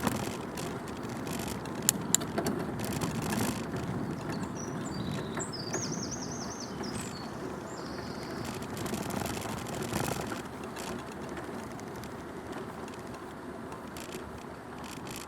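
Bicycle riding along a path, heard from a recorder mounted on the bike: a steady rumble of tyres and frame rattle, with two sharp knocks about two seconds in. A bird sings a short, high, repeated phrase around the middle.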